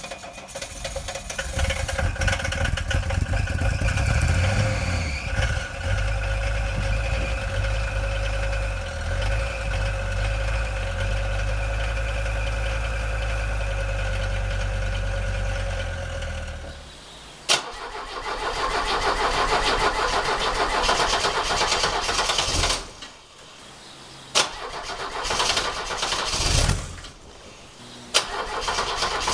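Diesel car engine running steadily after a cold start. About two-thirds of the way in, a different diesel car engine is heard cranking and running in short, noisy stretches, broken by sharp clicks.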